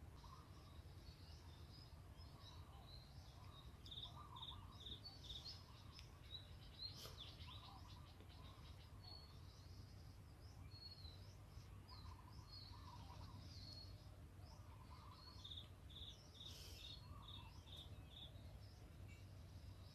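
Faint birdsong: short high chirps in quick even runs, with lower calls now and then, over a low steady rumble.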